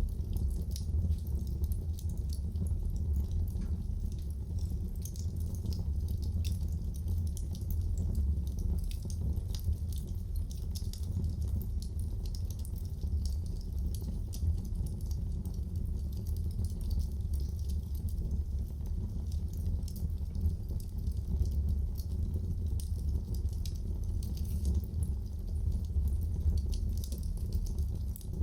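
Wood fire crackling in a fireplace: many small sharp pops and snaps, scattered irregularly over a steady low rumble.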